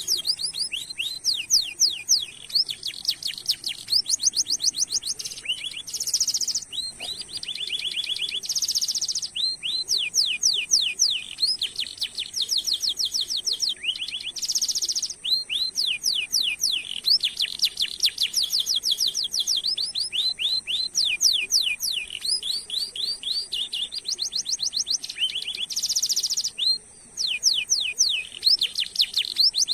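Domestic canary singing a long unbroken song: runs of rapid repeated sweeping chirps, many notes a second, with a few short dense buzzy rolls between the runs.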